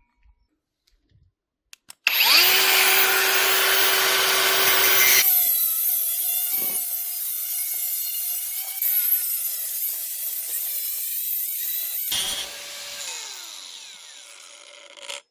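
Electric power cutting tool cutting square steel pipe. It starts about two seconds in and cuts loudly for about three seconds, then runs on more quietly with a steady whine. Near the end it winds down with a falling pitch.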